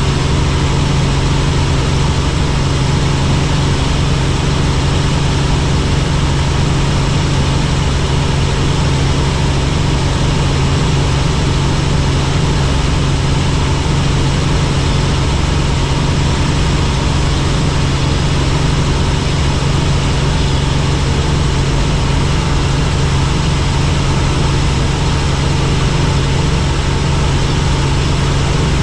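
Helicopter engine and rotor running steadily: a loud, even hum with a strong low tone and no change in pitch or level.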